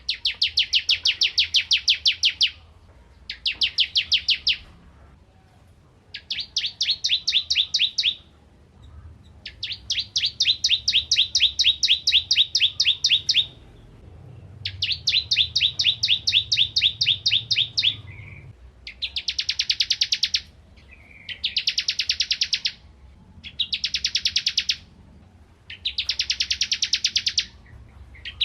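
Bar-winged prinia (ciblek kristal) singing loud, rapid strings of sharp repeated chip notes, about nine phrases of one to four seconds each with short pauses between them.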